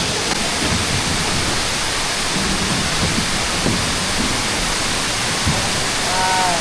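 Waterfall pouring close by, a steady, even rush of falling water.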